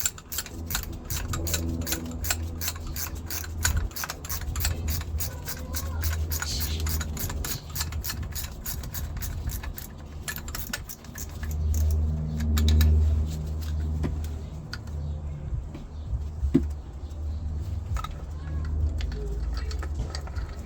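Ratchet spanner clicking quickly and evenly, about five clicks a second, as a bolt is wound out of a car engine, over a low rumble. About halfway through the clicking gives way to scattered metallic clicks, with one sharp knock near the end.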